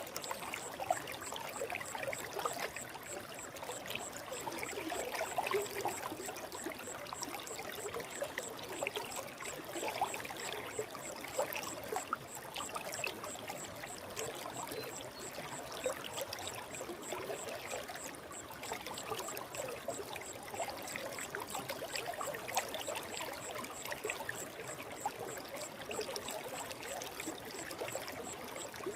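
Forest stream flowing, a steady babbling and trickling of running water.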